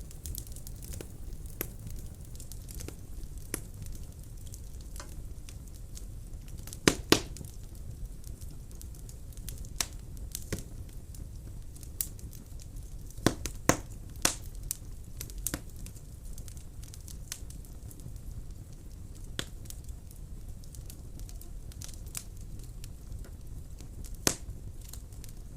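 Wood fire burning in a fireplace: a steady low rumble of flames with scattered crackles and sharp pops, the loudest a double pop about seven seconds in and others near thirteen, fourteen and twenty-four seconds.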